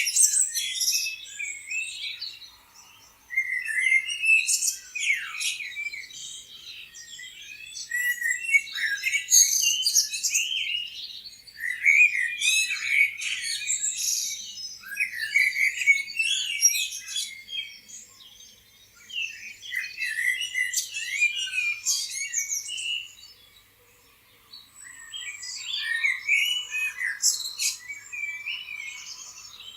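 A chorus of songbirds chirping and singing in quick, overlapping high-pitched phrases. It comes in waves, with short lulls about three seconds in, around the middle, and again near the end.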